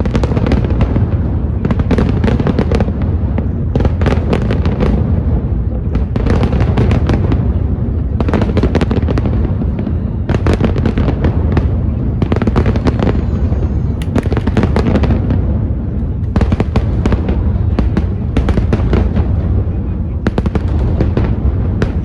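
Aerial fireworks display: a continuous low rumble of booming shells, with clusters of sharp crackling bangs every second or two.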